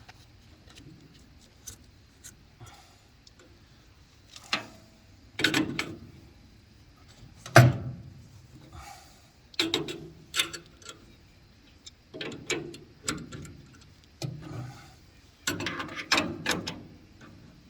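Metal pipe fittings clinking, clicking and scraping as a shut-off valve is threaded onto a pipe nipple by hand. There are a few light clicks at first, then bursts of louder clatter and rasping that come and go from about four seconds in.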